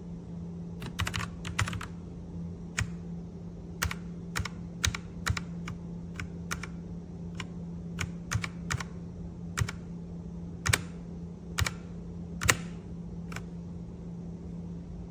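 Keys clicking on a Redragon K617 Fizz 60% mechanical keyboard: slow, irregular typing, single presses and short quick runs, over a steady low hum.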